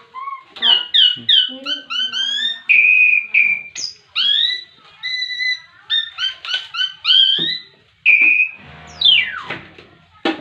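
Young starling singing a fast, continuous run of loud, varied whistled notes, many of them rising or bending in pitch, with a long falling sweep about nine seconds in and a sharp click just before the end.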